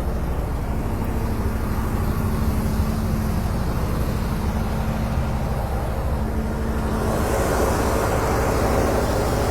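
Car engine running steadily with a low, even rumble, and a little more hiss near the end.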